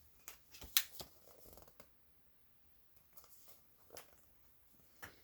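Faint paper rustling and a few soft clicks as a picture-book page is handled and turned, with one sharper click just under a second in.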